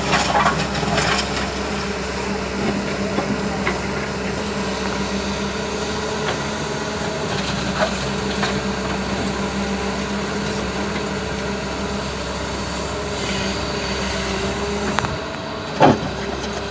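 Hyundai Robex 220LC-9S excavator's diesel engine running steadily, with a few short knocks, the loudest near the end.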